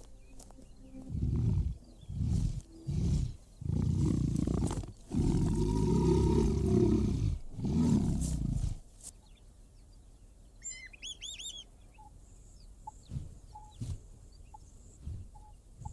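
A big cat growling in a series of five or so low calls, the longest around the middle, stopping about nine seconds in. A short run of high bird chirps follows.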